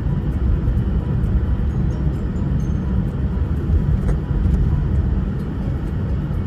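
Steady low rumble of a car driving, with road noise throughout.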